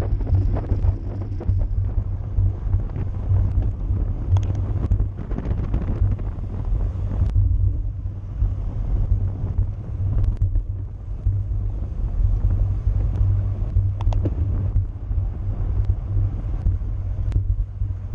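Wind buffeting the microphone of a camera carried on a racing bicycle at speed, a steady low rumble, with a few sharp clicks.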